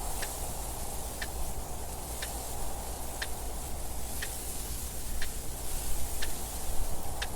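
Clock ticking steadily, one sharp tick about every second, over a continuous hiss and low rumble of wind noise.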